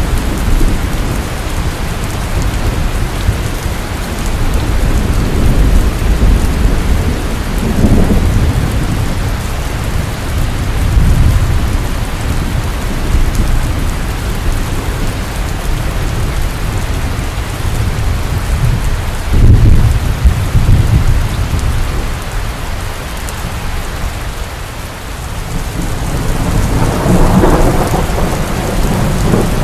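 Heavy rain falling steadily, with rolls of thunder rumbling low several times, loudest a little past the middle and again near the end.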